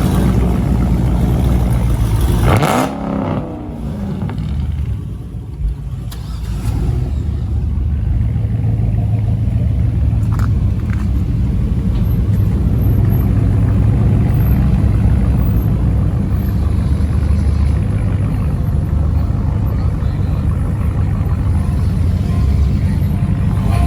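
Vehicle engine and road noise while driving, a steady low rumble, with a brief rise and fall in engine pitch about three seconds in.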